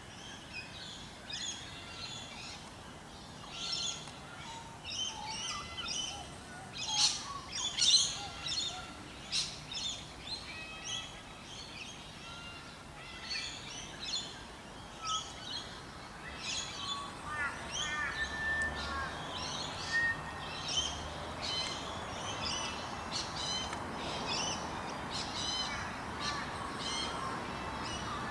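Small birds chirping, with many short, high calls overlapping and repeating; a faint steady hiss comes up in the second half.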